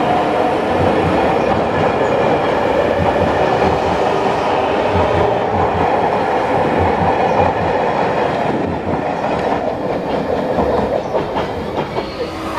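Passenger train rolling slowly past, its wheels running steadily over the track. The sound eases off a little near the end.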